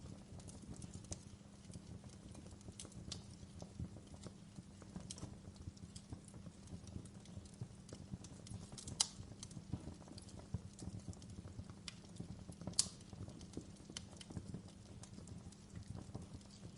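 Wood fire crackling in a fireplace: irregular small snaps and pops over a low, steady rumble of the flames, with two louder pops about nine and thirteen seconds in.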